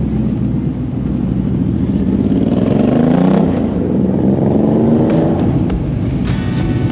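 A car engine accelerating, its pitch rising to a peak about three seconds in and then falling away, with background music coming in near the end.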